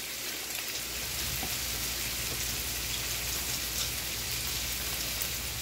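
Diced onion and bell pepper sizzling steadily in a hot frying pan, a fine even crackling hiss.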